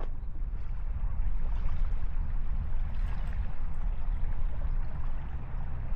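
Wind buffeting the microphone: a steady low rumble with a hiss of gusting wind above it.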